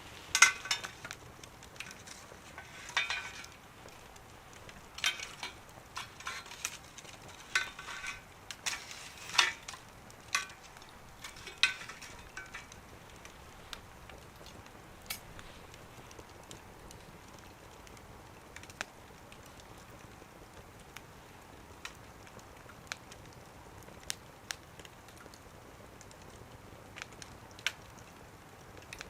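Wood fire crackling, with a cluster of sharp pops in the first dozen seconds and scattered single pops after that.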